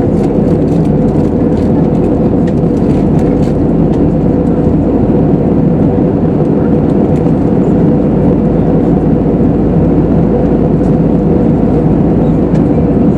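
Steady cabin drone of an Airbus A320neo with CFM LEAP-1A26 engines running: an even rush of engine and airflow noise with a steady hum at one pitch through it.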